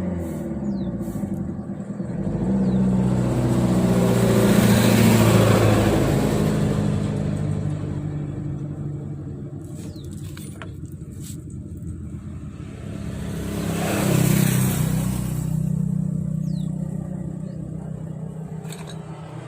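Motorcycle engine running, its sound swelling and fading twice.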